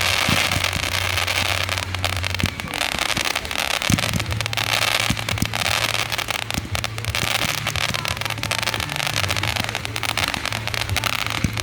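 Fireworks going off in quick succession: a dense, continuous crackling with many sharp pops and a few deeper thumps mixed in.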